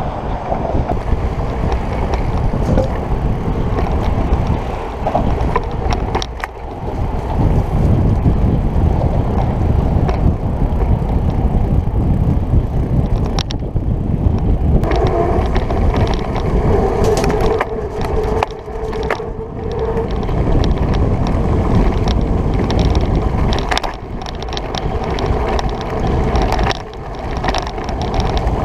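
Wind rushing over the microphone and rolling tyre noise from a bicycle being ridden, a loud steady rumble with scattered clicks. A steady hum joins in for about five seconds past the middle.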